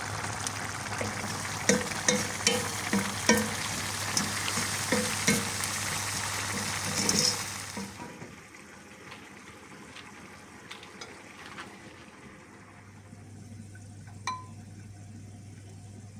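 Food sizzling in hot oil in a pan while a utensil stirs it, clicking and scraping against the pan. About halfway through the sizzle drops to a much quieter level, with only a few taps after that.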